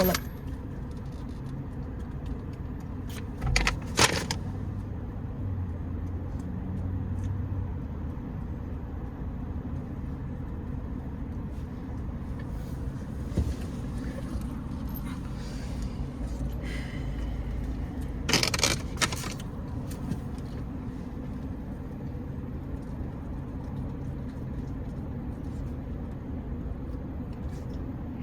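Steady low rumble of a car heard from inside the cabin, with short clattering knocks about four seconds in and again at about eighteen seconds.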